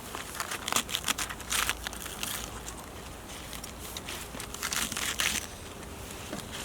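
Irregular rustling and crinkling in uneven bursts, loudest about a second in and again near five seconds in.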